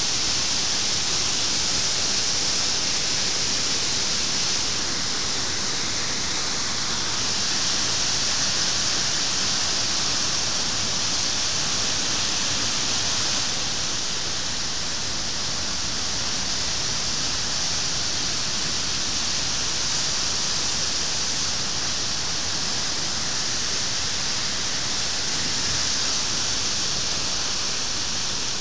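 Waterfall rushing: a loud, steady hiss of falling water that stays even throughout.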